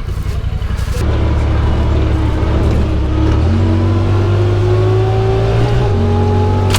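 Side-by-side UTV's engine running under throttle on the trail, the engine note picking up about a second in and shifting a couple more times as it drives on, with a faint whine slowly rising in pitch.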